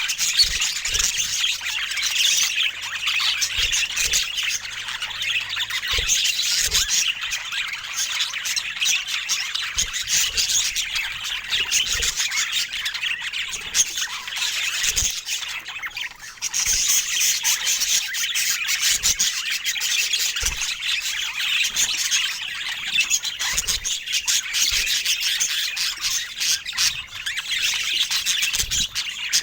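Budgerigars chattering and chirping in a continuous, busy high-pitched warble, with a few soft knocks underneath.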